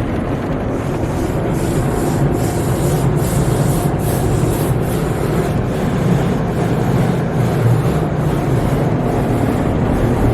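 Sonny's tunnel car wash equipment working over a car: a steady loud rush of water and machinery, with a regular swish repeating roughly every half second.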